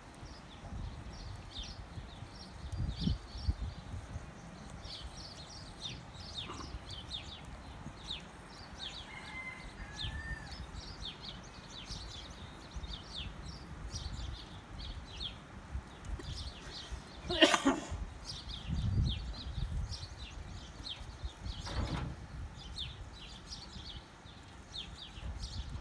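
Many small birds chirping in quick short calls throughout, over a low rumble, with one sharp knock about two-thirds of the way through and a fainter one a few seconds later.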